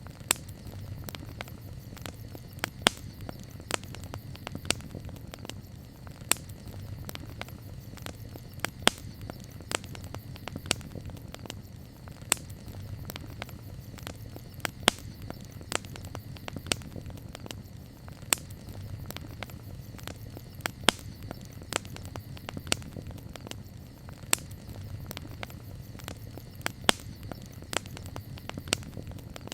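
Wood campfire crackling: irregular sharp pops and snaps, a few each second, over a steady low rumble of the burning fire.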